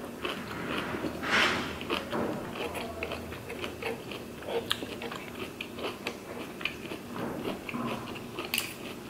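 A person chewing and eating spicy rice cakes and vegetables close to the microphone, with many small wet mouth clicks and a louder noisy burst about a second and a half in.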